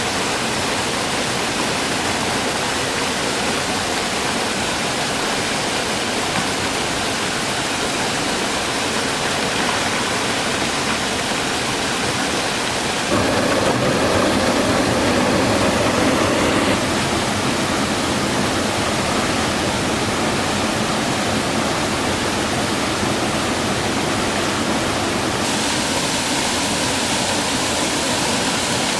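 Steady rush of fast-flowing mountain stream water over rocks. It grows louder and fuller for a few seconds in the middle.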